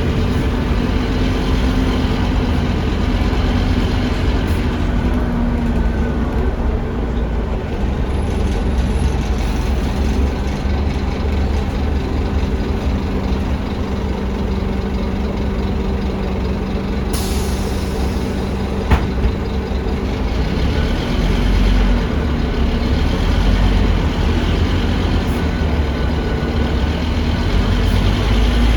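Ride inside a Scania K310UA articulated bus: the Scania DC9 five-cylinder diesel runs steadily under heavy low road rumble. There is one sharp click about two-thirds of the way through.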